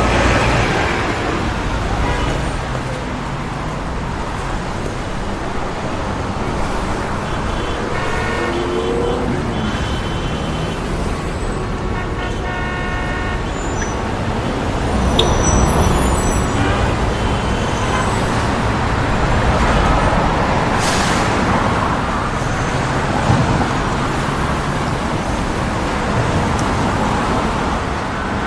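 Road traffic noise: vehicles running by, with a horn-like tone sounding briefly about twelve seconds in.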